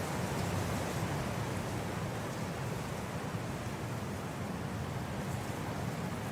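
Blizzard wind blowing as a steady, dense rushing noise, heaviest in the low end.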